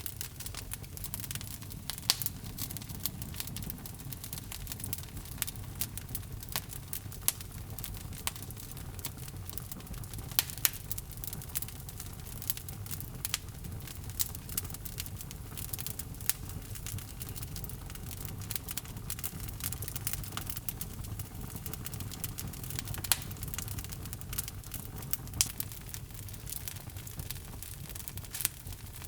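Wood logs burning in a fireplace: a steady low rumble of the flames with irregular sharp crackles and occasional louder pops.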